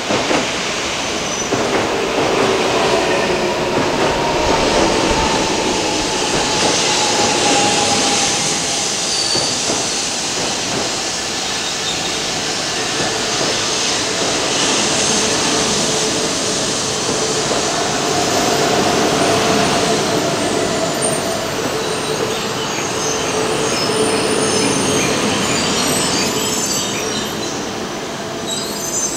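Shinkansen bullet train moving slowly along a station platform: a continuous rumble and hiss from the running train, with long drawn-out squealing tones over it.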